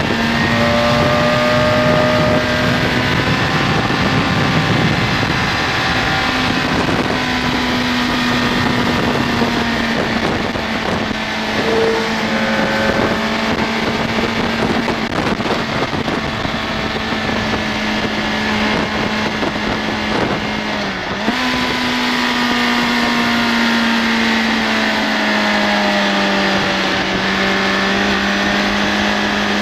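BMW K1200S inline-four engine running at steady revs under way, with heavy wind rush over the microphone. About two-thirds of the way through the engine note breaks briefly, comes back higher, and then slowly falls.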